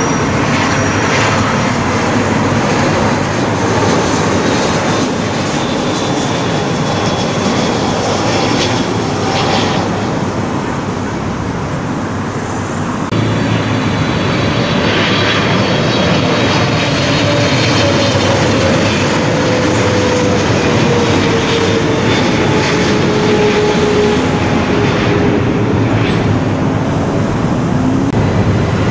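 Jet airliner on final approach passing low overhead, its engine noise loud and steady, with a whine that slowly falls in pitch in the second half.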